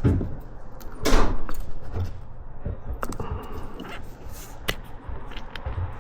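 A few knocks and clicks of metal CV-joint parts being handled and worked together, the loudest a little after a second in, followed by lighter clicks.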